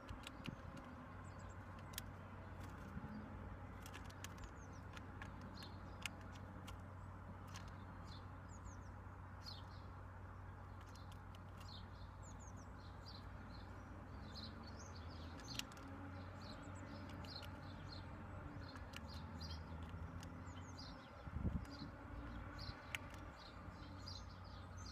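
Small birds chirping in short, high calls throughout, with scattered sharp taps close to the microphone and a steady low hum underneath.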